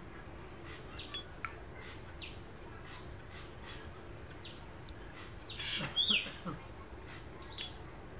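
Birds chirping in the background: short falling chirps every second or so, loudest about six seconds in.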